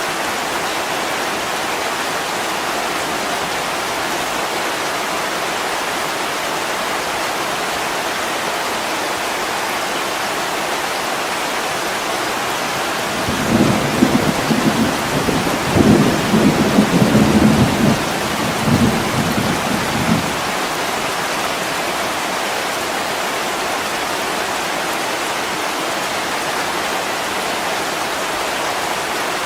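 Heavy rain falling steadily against a window, with a low rumble of thunder rolling through for several seconds in the middle.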